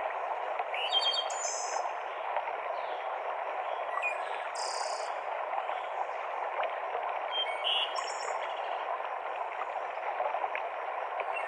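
Mountain stream cascading over rocks in a steady rush, with a small bird giving three short, high-pitched calls, about one, four and a half, and eight seconds in.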